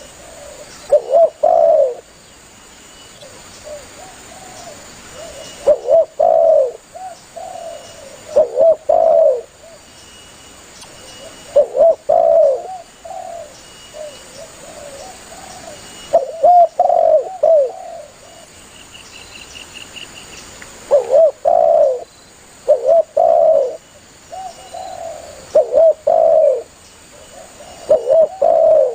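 Spotted dove (tekukur) cooing: short phrases of two or three low, rounded coos, repeated every two to five seconds. It is the calling song used to lure other doves in.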